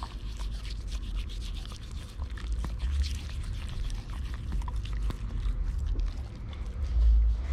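Toothbrush scrubbing a dog's teeth: a run of fine scratchy rubbing and small clicks, over a low rumble that swells to its loudest about seven seconds in.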